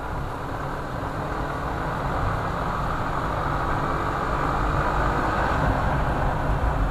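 Motor vehicle travelling along a road: steady engine and road noise, the engine's pitch rising slowly as it picks up speed.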